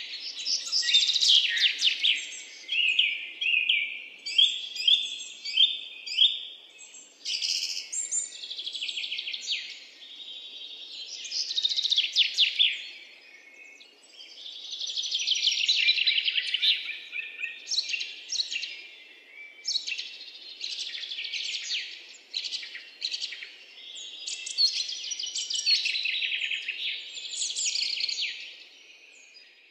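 Birds singing: dense, rapid chirps and trills in phrases of a few seconds, with brief pauses between them.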